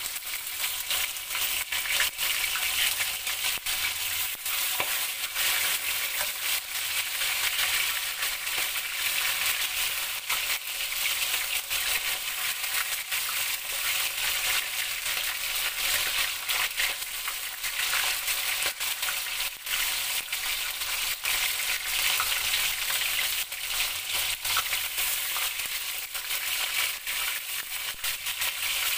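Flour-coated chicken hearts frying in hot oil: a steady sizzle peppered with many small pops.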